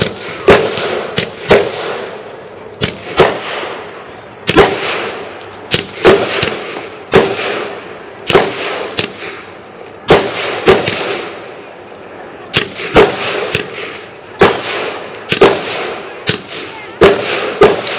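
Fireworks going off in a long, irregular string of loud bangs, about one or two a second, each trailing off briefly after it.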